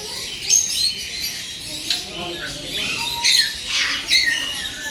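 A flock of small parrots in an aviary, peach-faced lovebirds among them, squawking and chirping over one another in many short, sharp, high calls.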